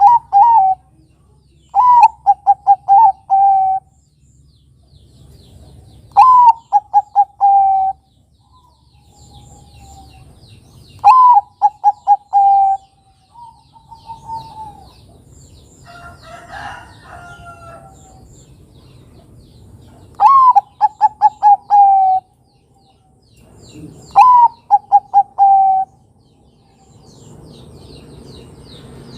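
Bangkok-type perkutut (zebra dove) cooing: repeated phrases, each a rising note followed by a quick run of short staccato coos, about six phrases a few seconds apart. A brief rougher call sounds once around the middle.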